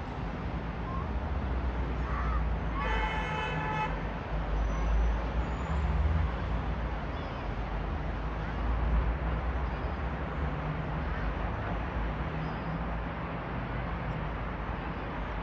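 Steady low rumble of road traffic, with one short horn-like toot about three seconds in.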